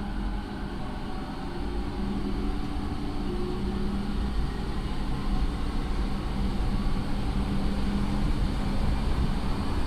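Running sound of a JR 209 series electric train heard inside the motor car, a Mitsubishi IGBT inverter retrofit with MT68 traction motors: wheel and rail rumble with steady motor and inverter tones, growing slightly louder.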